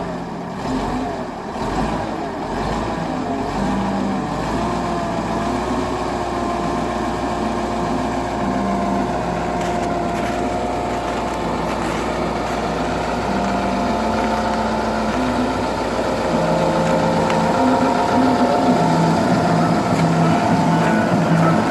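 KhTZ-242K tractor's diesel engine running steadily just after a cold start in frost, with music playing over it. The sound gets a little louder about three-quarters of the way through.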